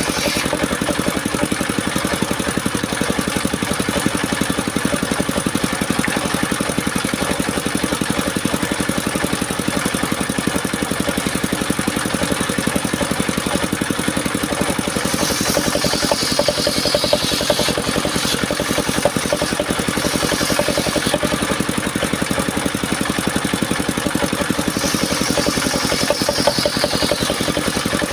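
Engine driving a circular sawmill, running steadily throughout. A higher hiss joins it from about halfway through for a few seconds and again near the end, as the blade cuts through soft mahogany.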